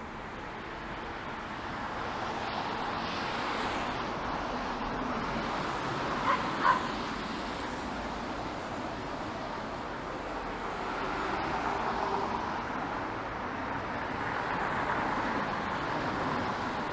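City street traffic passing on wet pavement, its tyre noise swelling and fading as cars go by. About six seconds in, a dog barks twice in quick succession.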